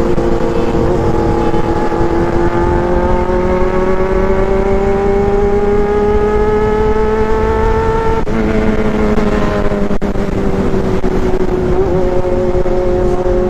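A vehicle engine running under way. Its pitch climbs slowly for about eight seconds, drops abruptly as if on a gear change, then sinks gradually, with a second, steadier engine tone underneath.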